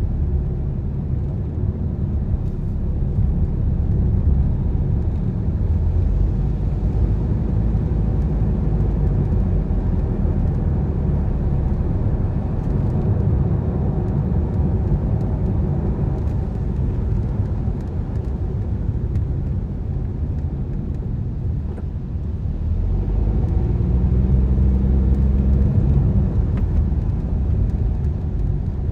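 Car driving: a steady low rumble of engine and road noise. About three-quarters of the way through, the engine note comes up and rises slightly as the car accelerates, then fades back into the rumble.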